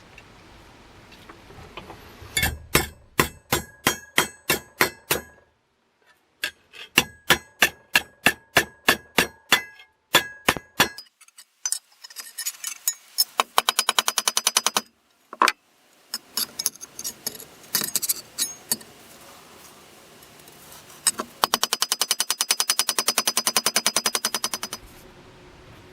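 Hammer blows on metal, each with a short ringing tone, struck in runs of about two a second. Later come faster runs of rapid light strikes, the longest near the end.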